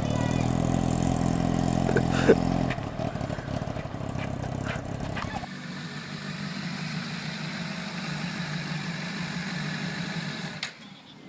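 Motorcycle engines running steadily. The sound changes abruptly about three seconds in and again about five and a half seconds in, with a short sharp click a little after two seconds.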